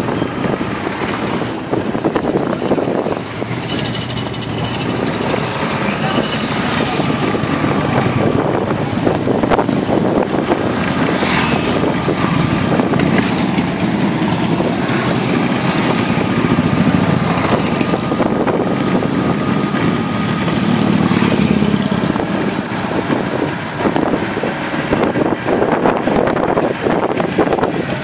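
Harley-Davidson V-twin motorcycle engines running, several at once, with people talking among them.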